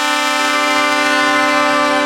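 Truck air horn held in one long, steady blast, a second, higher note joining about half a second in to make a chord.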